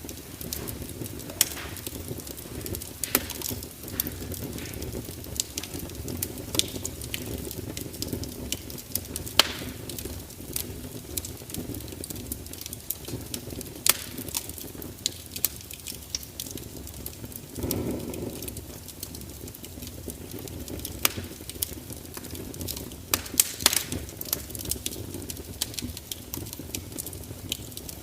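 Fire crackling: irregular sharp pops and snaps over a steady low rumble of the flames, with a brief louder rush of noise about two-thirds of the way through.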